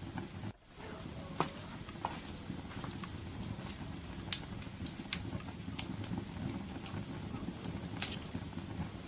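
Wood fire crackling: a steady low rumble of burning with sharp pops every second or so, the loudest about four seconds in. The sound drops out briefly about half a second in.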